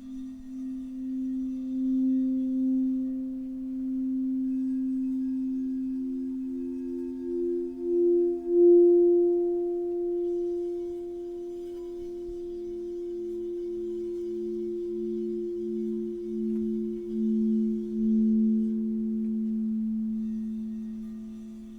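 Two singing bowls holding low, sustained tones with a pulsing wobble. A higher bowl swells in about eight seconds in, and the lower one swells again near the end.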